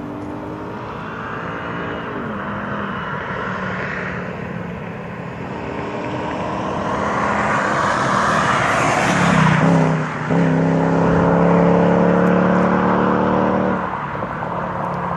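Mercedes-AMG C43 driving past under acceleration, its engine pitch climbing and dropping back at gear changes. It is loudest as it passes about ten seconds in, where the pitch drops. It then holds a steady high-revving note as it pulls away, easing off near the end.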